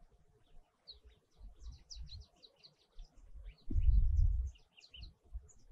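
Small birds chirping in quick, high, repeated notes, with bursts of low rumble underneath, the loudest about four seconds in.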